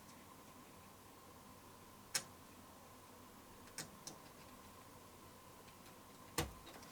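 Four light clicks and taps from handling the circuit board and its jumpers, about two, four and six and a half seconds in, over a faint steady high-pitched tone.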